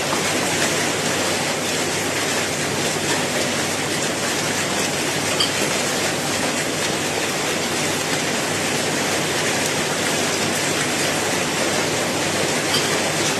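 Steady rain falling, an even hiss of many drops with no let-up, and a few sharper drop taps standing out now and then.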